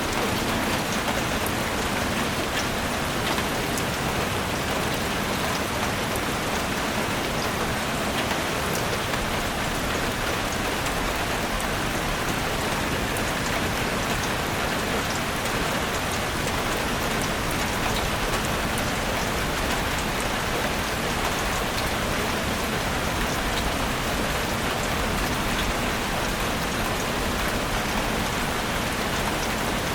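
Steady rain falling in a forest, an even hiss with scattered sharp drop ticks.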